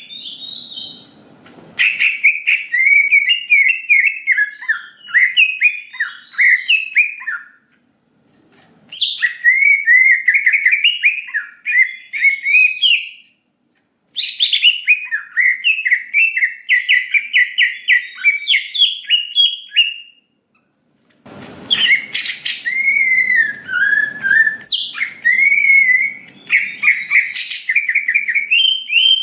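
Cucak ijo (green leafbird) singing loudly in full 'gacor' song: fast chattering, warbling phrases in four bouts, with short pauses between them.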